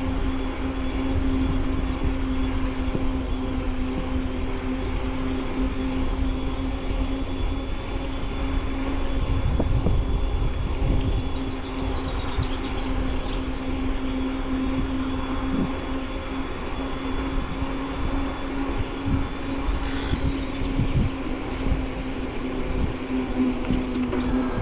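Electric mountain bike riding along: the assist motor gives a steady whine under constant low rumble from the tyres and wind on the handlebar-mounted microphone.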